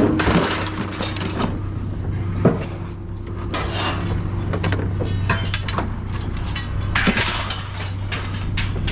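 An engine running steadily under intermittent clanks and rattles of scrap metal being handled, with sharper knocks near the start, about two and a half seconds in, and about seven seconds in.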